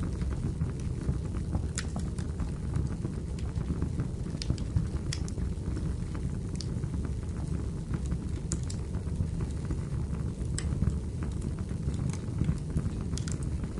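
Wood fire burning in a fireplace: a steady low rumble of the flames with sharp crackles and pops of the burning firewood at irregular moments, about a dozen in all.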